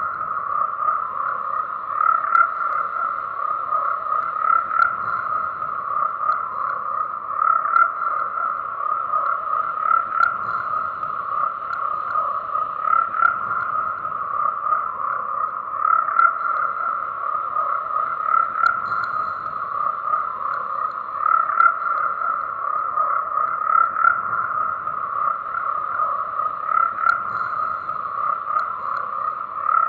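A dense chorus of frogs croaking continuously, swelling and easing about every two and a half to three seconds.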